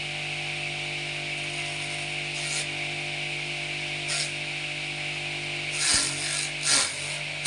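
A small engine-driven machine running at a steady speed, with two loud rushing surges near the end as its pitch briefly dips.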